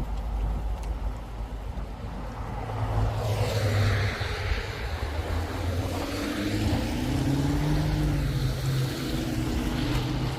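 Lexus SC430 driving, its engine note rising gently as it picks up speed from about three seconds in, over a steady low road rumble and a hiss of tyre and road noise.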